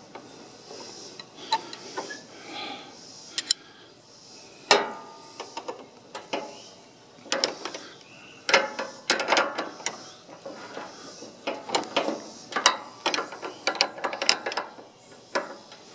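Hand tools tightening the lock nut on a riding lawn mower's steering linkage: a run of irregular metal clicks and clanks, sparse at first and coming thick and fast through the second half.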